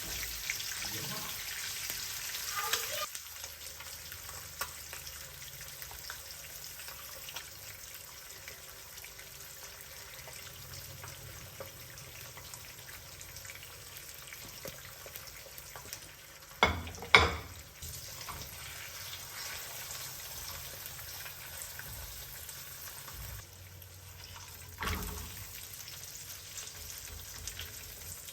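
Kitchen cooking sounds: a loud hiss for the first three seconds, then a faint steady sizzle with scattered small clicks. Two loud knocks come just past the middle, and a smaller one near the end.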